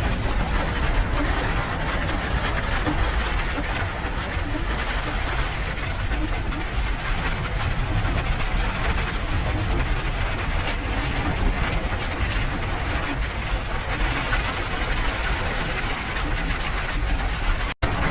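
Steady rain: an even hiss of many fine drops over a constant low rumble, cutting out for an instant near the end.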